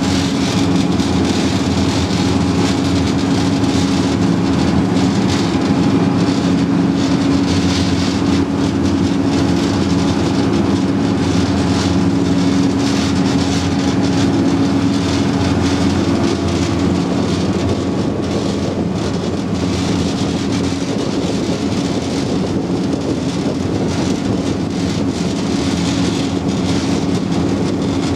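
Type 94 waterfront mine-laying vehicle's engine running steadily under way: a constant low hum with a rushing noise over it.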